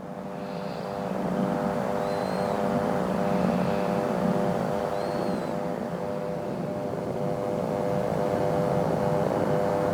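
Aircraft engines running, a steady multi-tone hum that grows louder over the first second and a half and then holds.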